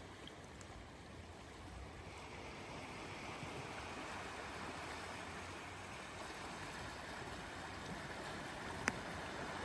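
Sea waves washing onto a beach, a steady hiss of surf that slowly grows louder. One short sharp click comes near the end.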